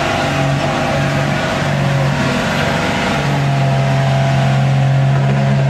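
Diesel pulling truck's engine running hard under load in a truck pull, a loud steady drone that settles to an even pitch about three seconds in.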